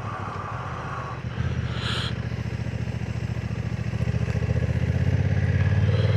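Honda NT1100's parallel-twin engine pulling under throttle. It steps up in loudness a little over a second in and keeps getting steadily louder as it accelerates.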